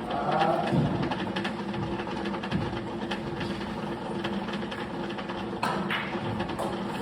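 Billiard balls clicking, with two sharp strikes in quick succession about six seconds in, over a steady mechanical hum.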